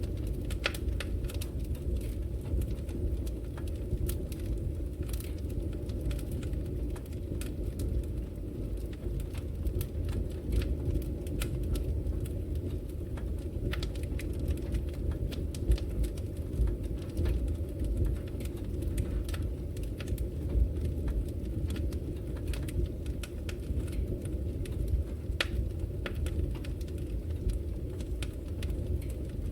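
Wood fire burning in a fireplace: a steady low roar of flames with frequent sharp, irregular crackles and pops.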